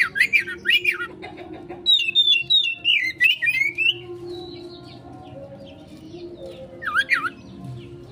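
Oriental magpie-robin singing in agitated 'konslet' fighting form: quick sharp whistled sweeps at the start, a falling run of notes a couple of seconds in, and another short burst near the end.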